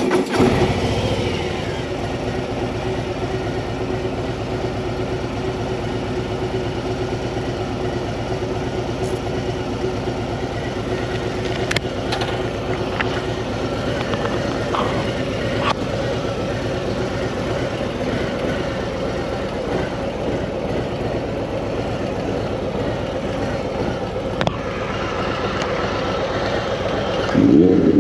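Harley-Davidson Street Bob 114's Milwaukee-Eight 114 V-twin firing up at the very beginning, then idling steadily with its pulsing beat. Near the end it revs up as the bike pulls away.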